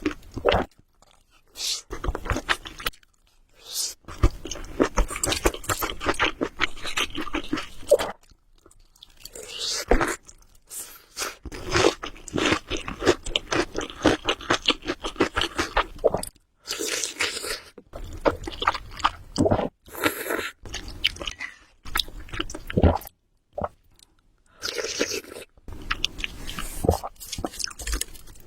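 A person chewing food close to the microphone: runs of dense wet clicks and crunches, broken by several short silent pauses.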